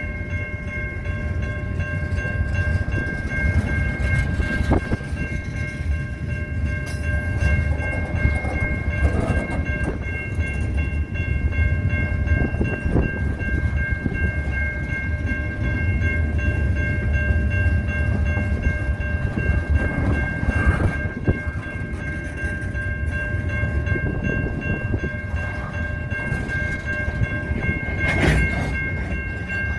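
A fouled horn stuck on, sounding one steady chord of several notes without letting up, with wind rumbling on the microphone.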